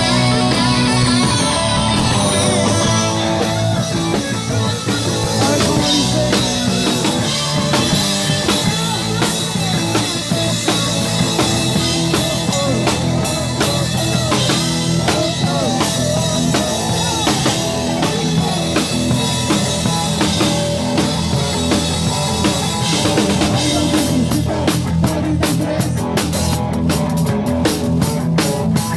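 Rock band playing, with drum kit, bass and guitar. Sharp, evenly spaced drum and cymbal hits come to the front in the last few seconds.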